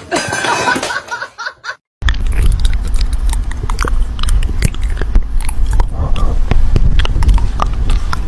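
Close-up chewing and crunching: many irregular clicks over a steady low rumble, starting abruptly about two seconds in, after a short stretch of voice-like sound.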